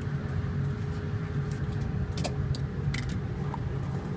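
Cartridges being pressed one by one into a gun magazine: a series of short, sharp metallic clicks about half a second apart, beginning about a second and a half in, over a steady low hum.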